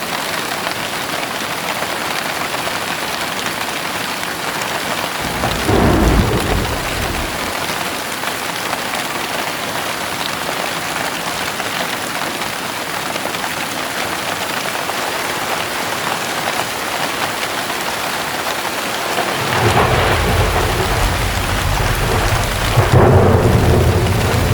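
Steady heavy rain hissing, with two rolls of thunder: a short rumble about five seconds in and a longer, louder one building from about twenty seconds in and peaking near the end.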